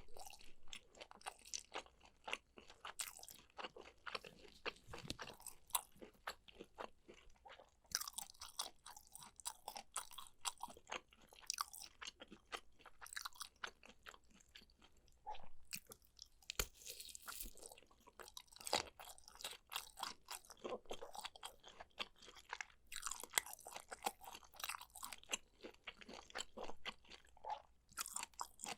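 Close-miked chewing of sea grapes and kielbasa sausage: long runs of quick wet crunches and little pops, broken by a few short pauses.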